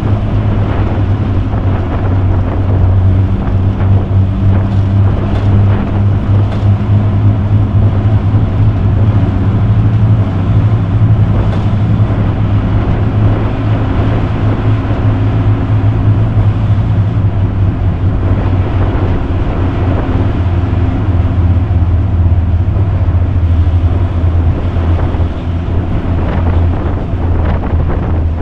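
Morris Minor's four-cylinder engine running at a steady pace while driving, heard from inside the cabin with road and wind noise. The engine note drops a little about halfway through.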